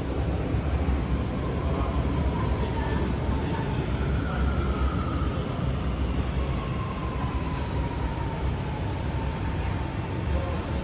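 Singapore MRT train running: a steady low rumble with a faint whine that drifts slowly in pitch.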